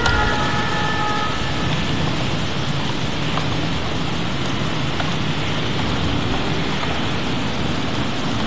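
Steady heavy rain falling during a thunderstorm, with a low rumble underneath.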